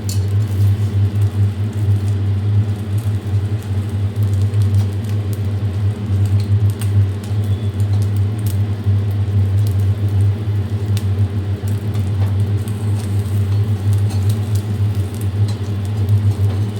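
A steady low hum runs throughout. Over it are faint crackling and scattered light clicks of a paratha and egg frying in oil in a pan.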